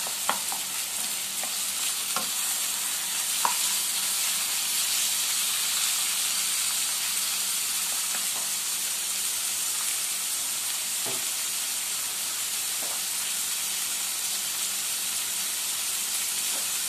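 Chicken breast strips sizzling in hot oil in a non-stick wok: a steady hiss, with occasional taps and scrapes of a wooden spatula stirring against the pan, most of them in the first few seconds and around the middle.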